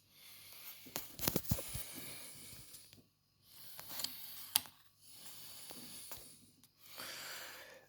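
A person breathing close to the microphone in slow, hissy breaths of a second or two each, with a few small clicks and taps of handling.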